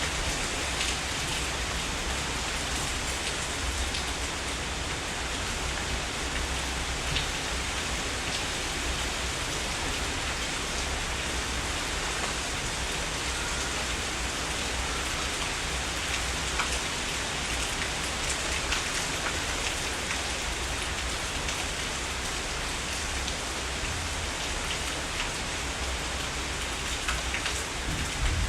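Heavy rain falling steadily: a constant hiss with individual drops ticking through it and a steady low rumble underneath.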